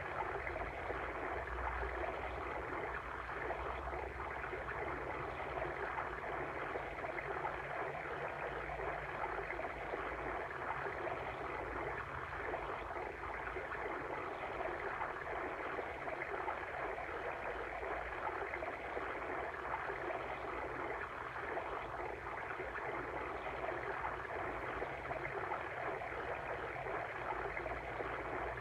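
Steady babbling of a flowing water stream.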